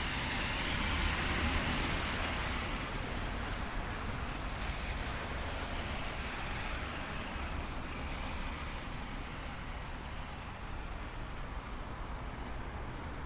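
Traffic on a rain-wet city street: a vehicle's tyres hiss past on wet asphalt, loudest about a second in, then fading into a steady hiss of rain and distant traffic.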